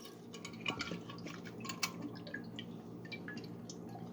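Nectar dripping inside a hummingbird feeder as it is tipped upright: a string of small, irregular drips and ticks.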